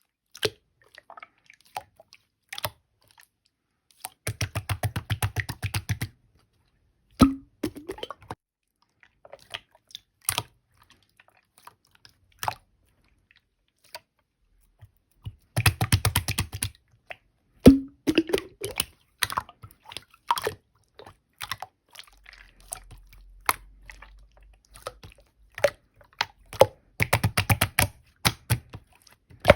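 Tough, clear slime being squeezed and poked by hand: scattered sticky clicks and pops, with three runs of rapid clicking as air pockets are pressed out, and a few sharp pops along the way.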